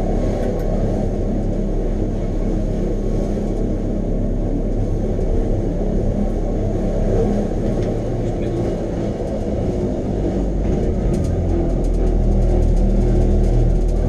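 Train running: a steady low rumble that grows a little louder about ten seconds in.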